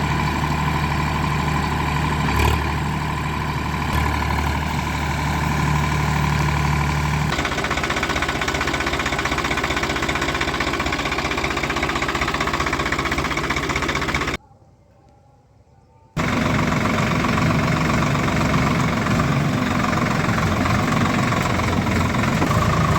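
Swaraj tractor diesel engines running steadily under load. The engine note changes abruptly about a third of the way in, and the sound drops out for about two seconds just past the middle before the engines are heard again.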